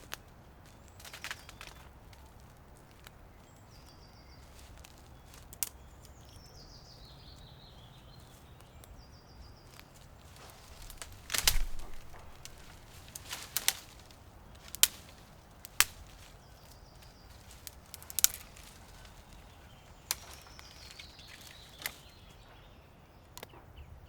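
Scattered sharp knocks and snaps, about a dozen, the loudest a close cluster about halfway through, over a quiet outdoor background. A descending run of high chirps sounds twice, about four seconds in and near the end.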